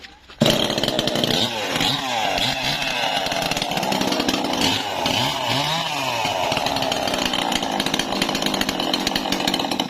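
Engine-driven saw cutting trembesi wood, a loud steady run under load with the engine pitch wavering. It starts suddenly about half a second in and cuts off suddenly at the end.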